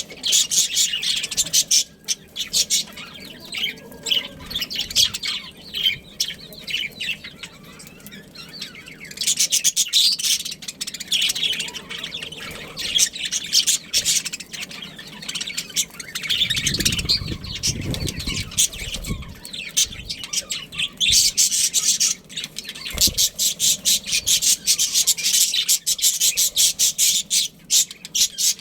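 Budgies chattering and chirping, fast warbling calls coming and going in bouts. A few seconds of low rumbling noise sound over them just past the middle.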